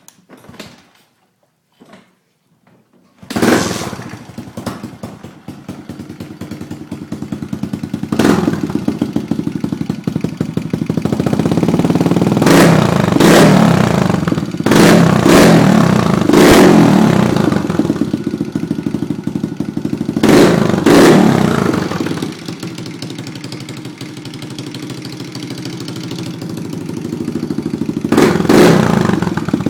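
Suzuki DR-Z110's small single-cylinder four-stroke engine, breathing through a Pro Circuit T-4 exhaust, starts suddenly about three seconds in. It then idles, revved up and back down with a series of quick throttle blips.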